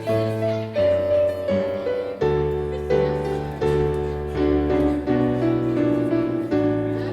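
Piano playing slow, sustained chords over a bass line, moving to a new chord about once a second.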